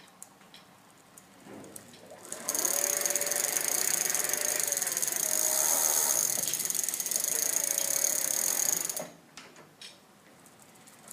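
Pedelec (e-bike) electric drive motor running for about six and a half seconds: a mechanical whir with a high steady whine, starting about two seconds in and stopping abruptly, with a few small clicks before it.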